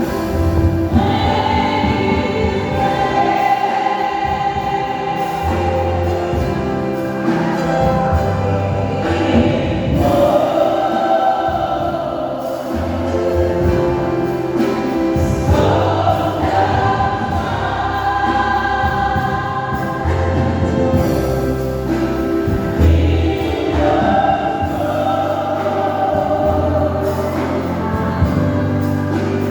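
Church choir singing a gospel song with instrumental accompaniment and a steady bass line.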